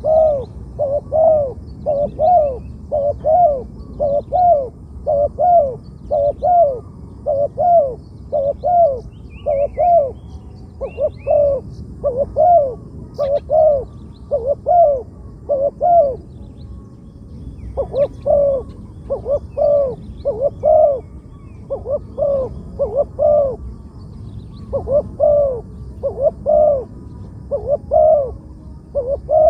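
Spotted dove cooing over and over, a rhythmic series of low coos about two a second with a couple of short breaks. A small bird chirps faintly once partway through.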